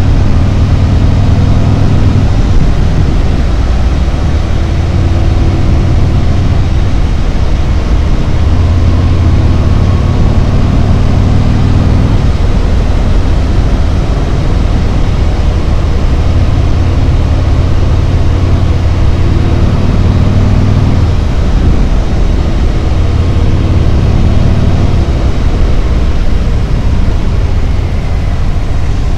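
Harley-Davidson Road Glide's V-twin engine running on the road, its low note shifting every few seconds as the throttle is opened and eased, over steady wind and road noise.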